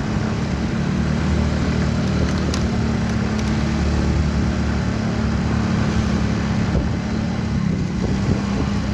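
Motorcycle engine running steadily while riding along, with an even rush of road noise.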